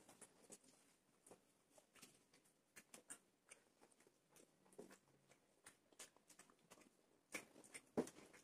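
Faint chewing and wet mouth clicks of people eating naan and curry by hand: scattered short smacks, with two louder ones near the end.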